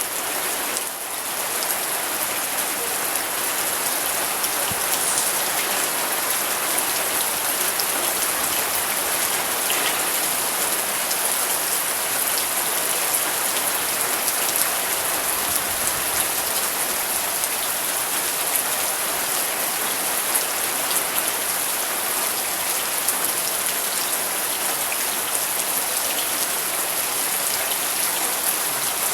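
Steady rain falling: an even hiss with many small individual drop ticks, briefly a little softer about a second in.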